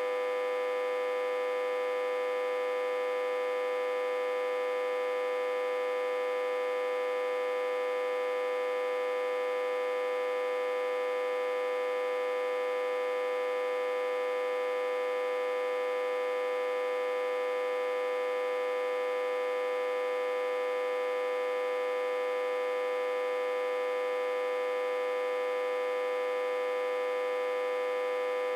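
Autotransformer humming, reverse-connected to a step-down transformer with about 60–80 V on its input. One steady, unchanging hum with many overtones.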